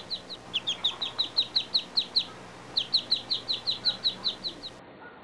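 A bird chirping: one short, high, slightly falling note repeated about five times a second in three runs with brief pauses, stopping shortly before the end.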